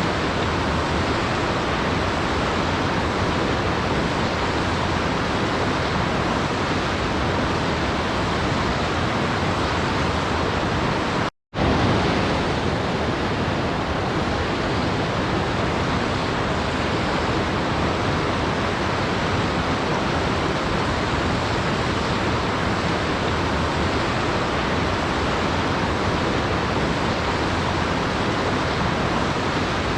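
Steady, even rush of waterfall white noise, cutting out completely for a split second about eleven seconds in and then resuming.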